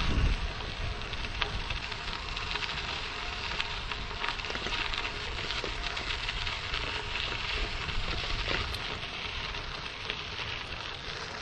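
Bicycle tyres rolling over a dirt and gravel road, a steady crackling crunch with many small clicks, with a brief rumble of wind on the microphone at the start.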